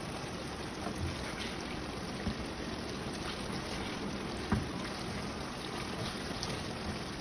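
Chicken karahi sizzling steadily in the wok, with a light knock about four and a half seconds in.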